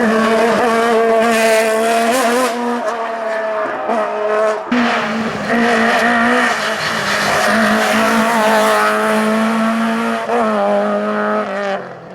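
Hill-climb race car engine running hard at high revs with a steady pitch, briefly dropping off about four and a half seconds in before picking up again, then cutting off suddenly near the end.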